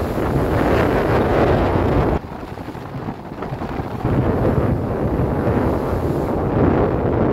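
Strong sea wind buffeting the microphone over the rush of waves. The wind drops for a moment about two seconds in and picks up again about four seconds in.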